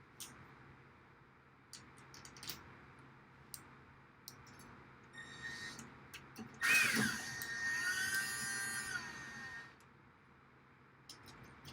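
Power drill spinning up and running steadily for about three seconds, after a brief trigger blip, as a hole is drilled in the rack's outer rails. Light clicks and knocks of handling come before it.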